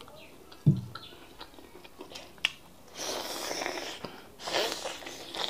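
Close-miked chewing and wet mouth smacking of fufu and bitter leaf soup eaten by hand, with scattered small clicks. A short low hum comes about a second in, and two longer hissing mouth sounds come in the second half.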